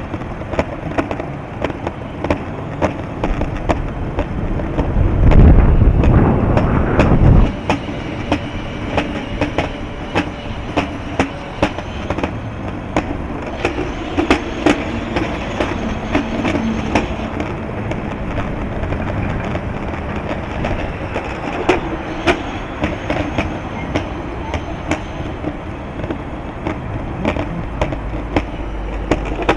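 Wind buffeting the microphone over a continuous rolling rumble with frequent sharp clicks, with a heavy gust about five seconds in that lasts a couple of seconds.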